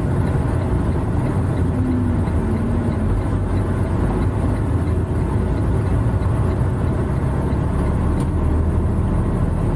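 Semi-truck's diesel engine running steadily with road noise while driving, heard from inside the cab as a constant low drone.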